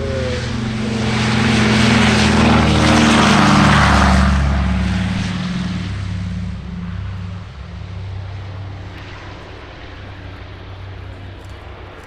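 Piston-engined propeller warbird flying past: the engine drone builds to its loudest about three to four seconds in, drops in pitch as the plane passes, then fades away.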